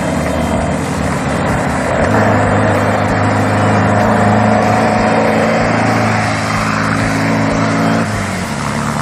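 An off-road race vehicle's engine running hard at steady revs, mixed with a loud rushing noise. About eight seconds in, the engine note drops to a lower pitch.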